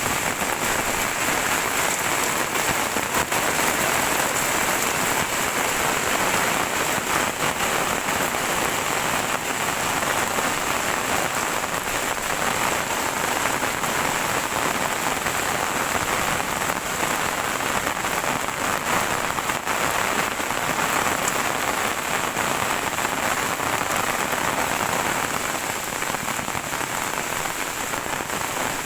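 Heavy rain falling steadily, a dense hiss of drops on surfaces.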